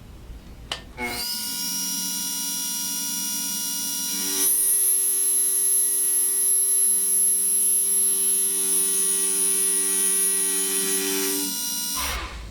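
Small milling machine spindle starting up with a rising whine, then a louder, high-pitched squeal as a 10 mm four-flute carbide end mill takes a light cut across the end of a cold-rolled steel bar at about 1500 RPM. The machine stops near the end.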